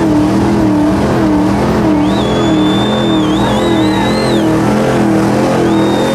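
Truck-pull pickup truck engine running, its note wavering up and down about every half second. A thin high whine comes in over it about two seconds in and again near the end.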